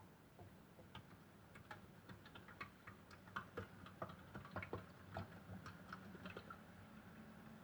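Modified toy washing machine running faintly with a low hum, its mechanism giving off irregular small clicks and ticks that come thickest in the middle.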